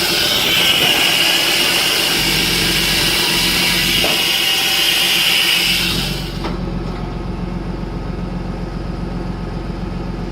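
John Deere 8530 tractor's diesel engine running steadily while driving a hydraulic log splitter, with a loud hiss-like whine over it that cuts out about six seconds in, leaving the engine running on its own with a faint click or two.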